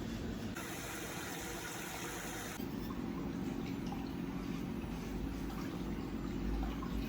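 Water running steadily into a pedicure foot-spa basin as it fills, a continuous rushing hiss that brightens for about two seconds starting half a second in.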